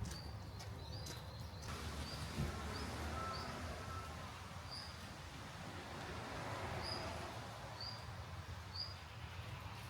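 Birds calling in short high chirps, repeated every half second to a second, with a few lower calls around two to four seconds in, over a steady low rumble and hiss.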